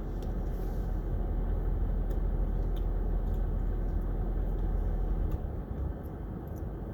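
Steady low rumble inside a car's cabin, as from the engine idling, easing slightly about five seconds in, with a few faint clicks.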